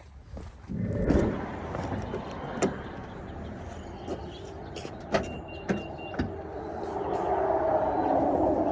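A motor starts about a second in and runs steadily, growing louder toward the end, with scattered clicks and knocks over it.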